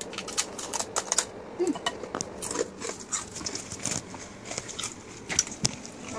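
Crisp fried food being bitten and chewed close to the microphone: a run of sharp, irregular crunches and clicks.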